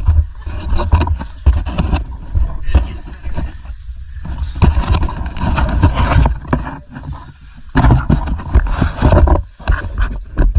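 Loud, irregular rubbing, scraping and knocking right at the camera's microphone as a caver scrambles over rock and mud, with a few brief lulls.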